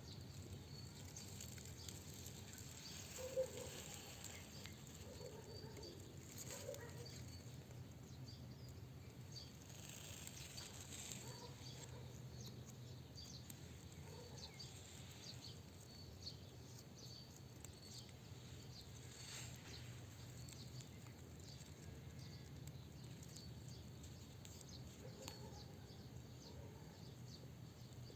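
Quiet outdoor ambience: a faint low hum with a few soft distant bird chirps, mostly in the first several seconds, and scattered faint ticks.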